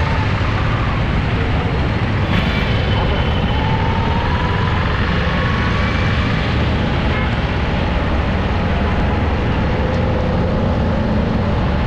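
Steady road and traffic noise from a drive in city traffic, a constant low rumble with a few faint gliding tones from other vehicles passing.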